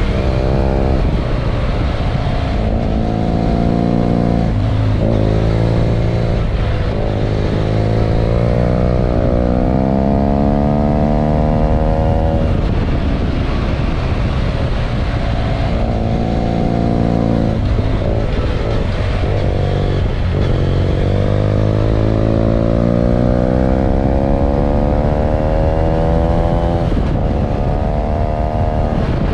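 BMW F800 GS parallel-twin engine pulling the motorcycle uphill, heard from on board: its pitch climbs steadily under throttle and falls back several times, most clearly about 12 seconds in and near the end, over a steady rush of wind.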